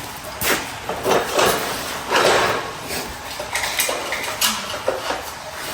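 Small metal parts being handled and probed: scattered light clicks and clinks, with a short scraping rasp about two seconds in.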